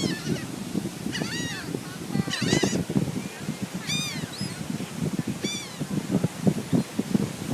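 Gulls calling: about five short, arched squawking calls at intervals, over a low rough background noise.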